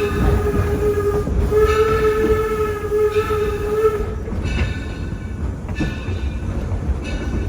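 Steam locomotive Torch Lake's whistle: one long blast ends about a second in, a second long blast follows to about four seconds, and the train runs on along the rails under and after it.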